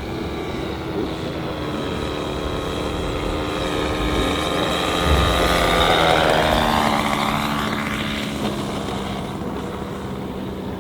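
A large radio-controlled model airplane flying past, its engine and propeller growing louder to the middle and then falling in pitch and fading as it flies away.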